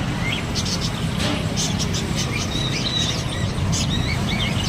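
Caged pet parrots chirping in quick, short calls over a steady low rumble of traffic.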